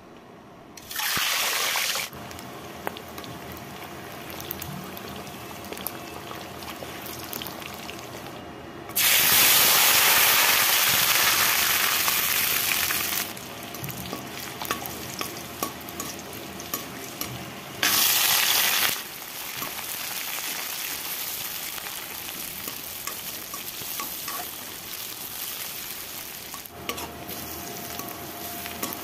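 Oil sizzling in a metal wok as whole spices and sliced onions fry, stirred with a metal spoon that clicks and scrapes against the pan. The sizzle turns much louder three times: briefly about a second in, for about four seconds around nine seconds in, and briefly again around eighteen seconds in.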